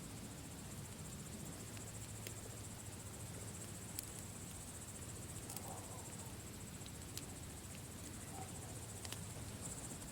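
Campfire crackling: sparse sharp pops every second or two over a low, soft rumble, with a steady high insect trill behind it.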